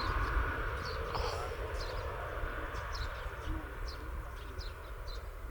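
Distant jet airliner rumble, with its engine whine fading away during the first second or two, and short high chirps repeating about twice a second.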